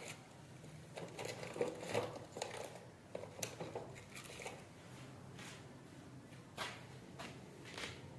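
A scattered series of faint, sharp clicks and light knocks, thickest in the first few seconds, then a few single ones, as of a small hand tool being handled and worked.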